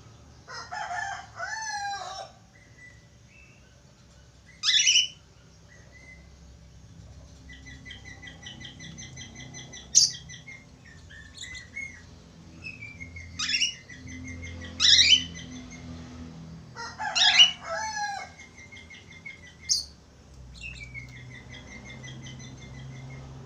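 Budgerigars chattering: loud, sharp chirps every few seconds between stretches of a quieter, rapidly trilling warble.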